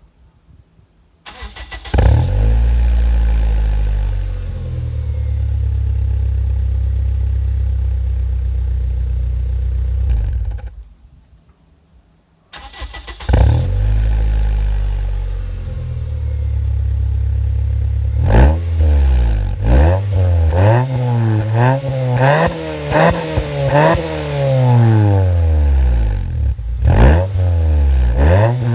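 Honda Accord CL8's four-cylinder engine heard through an unbranded aftermarket muffler on the stock exhaust pipe. It cranks and starts about a second in, idles, is switched off around ten seconds in, and starts again. From about two-thirds of the way through it is revved repeatedly in quick blips, each rising and falling.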